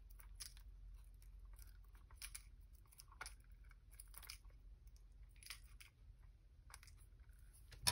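Faint, light clicks and rattles of small metal craft pieces being handled and picked up with a magnet, several soft ticks a few seconds apart.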